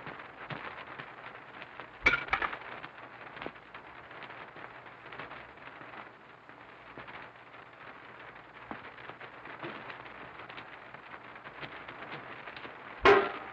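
Two sharp impacts with a brief ringing, one about two seconds in and a louder one near the end, over the steady hiss and crackle of an early sound-film soundtrack.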